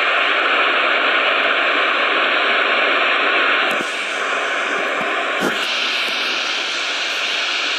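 Lion Air airliner's engines running with a steady loud rush and a faint high whine. The noise drops a little about four seconds in and shifts in tone about a second and a half later.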